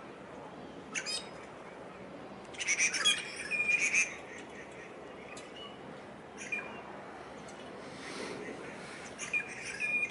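Small birds chirping in short bursts, loudest about three seconds in, over a steady low background noise.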